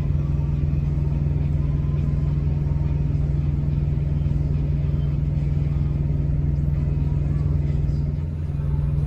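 Semi-truck's diesel engine idling: a steady low hum with a dip in level about eight seconds in.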